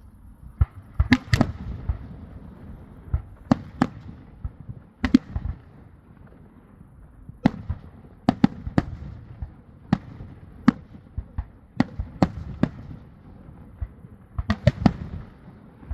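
Fireworks finale with salute shells: about twenty sharp bangs at uneven intervals, often two or three in quick succession, with a low rumble between them.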